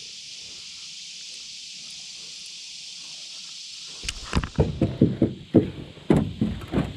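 Steady high insect chorus, then from about four seconds in a just-caught fish flopping and thrashing, a fast irregular run of loud knocks and slaps.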